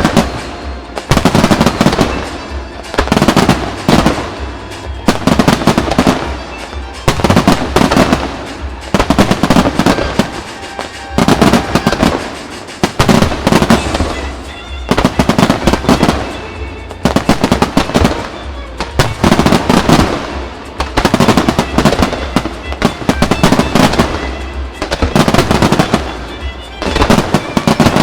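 Aerial fireworks shells bursting in quick volleys, a loud burst every second or two, with music playing under them.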